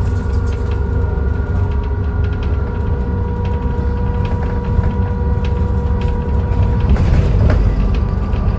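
Dennis Trident 2 Enviro400 double-decker bus running, a low engine drone with a steady whine held over it and light rattles and clicks. It gets louder and rougher about seven seconds in.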